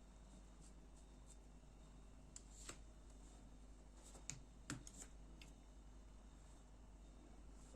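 A few faint, sharp clicks and taps of small parts and a screwdriver being handled while a folding knife is disassembled, the clearest two in quick succession about halfway through.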